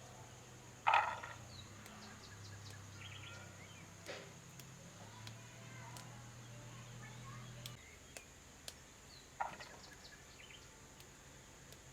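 Rural outdoor ambience: a steady high insect drone, with two short bird calls, one about a second in and one near the end. A low steady hum stops about eight seconds in, and there are a few faint clicks.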